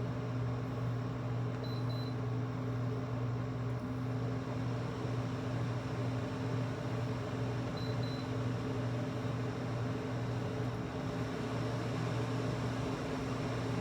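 LG 8000 BTU window air conditioner running in cool mode with its compressor on: a steady low hum under an even rush of fan air. Two short high beeps sound about six seconds apart, as the fan speed is raised from low.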